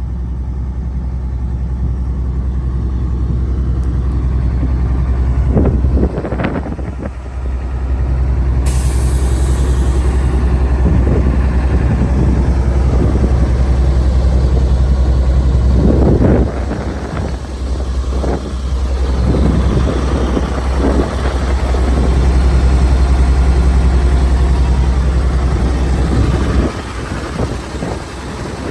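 Caterpillar diesel engine of a GMC TopKick truck running at idle, a steady low drone that briefly dips and surges a few times.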